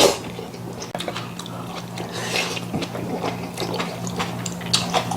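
Eating sounds from a bowl of budae-jjigae: slurping broth and noodles and chewing, with many small clicks of spoon and chopsticks. A steady low hum runs underneath.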